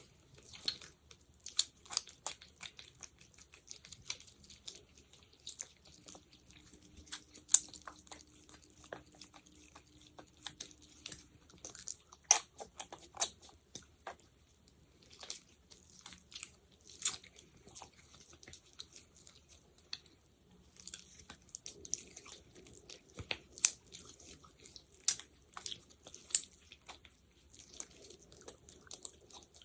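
Sticky, wet clicking and crackling of gel or petroleum jelly being pressed and pulled apart close to the microphone, in irregular sharp snaps.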